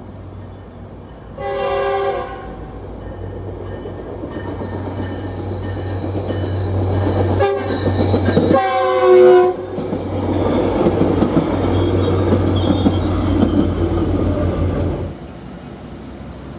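Tri-Rail diesel commuter train sounding its chord horn as it approaches and passes: a blast about a second and a half in, then a short toot and a longer blast near the middle, with engine hum and rail rumble building until it falls away suddenly near the end.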